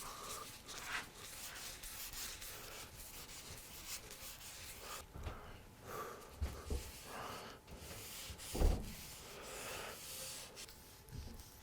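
Soft rubbing strokes by hand on white oak, with a few light knocks, the loudest about three-quarters of the way through.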